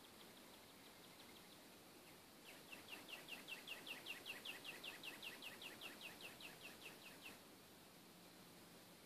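A songbird singing one trill of quick, down-slurred notes, about five a second, starting a couple of seconds in and lasting about five seconds, swelling and then fading, over faint outdoor hiss.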